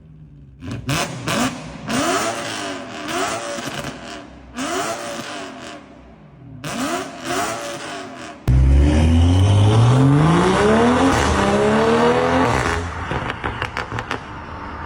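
BMW M3 exhaust revving: several short free-revs, each rising and falling, then, suddenly louder, one long rev climbing steadily for about four seconds before dropping off.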